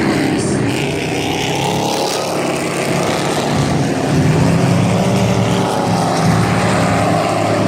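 Dirt-track race trucks' engines running hard in a pack around the oval, several engine notes overlapping, with pitch rising and falling as they accelerate and back off through the turns.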